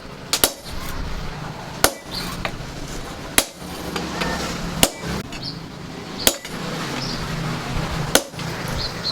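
Hammer blows on steel, spaced about a second and a half apart, a quick double strike at the start, each with a short ring. A steady low hum runs underneath.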